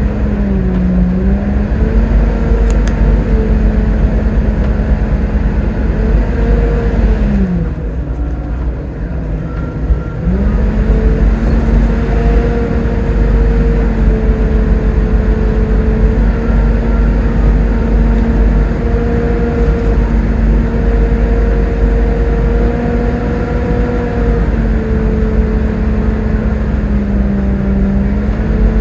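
Volvo B7TL double-decker bus's 7-litre six-cylinder diesel and driveline running under way, with a steady whine over a low rumble. The whine falls away and drops out for a couple of seconds about a quarter of the way through, then comes back and holds.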